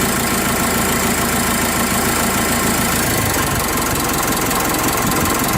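2012 Mitsubishi Fuso Canter's 3-litre, 150 hp turbo-diesel engine idling steadily.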